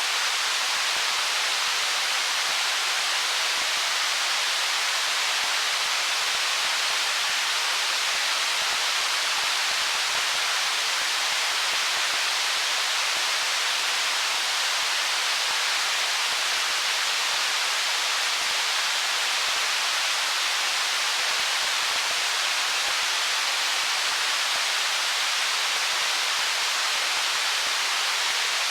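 Stream water flowing over stones: a steady, unbroken rush of water with a bright hiss and no changes.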